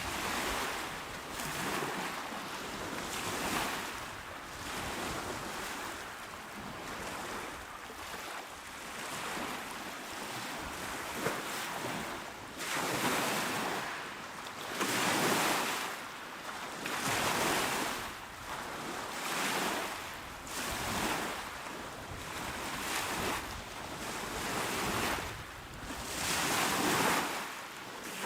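Small waves breaking and washing onto a shore in a steady rhythm, one surge about every two seconds, some of them louder than the rest in the second half.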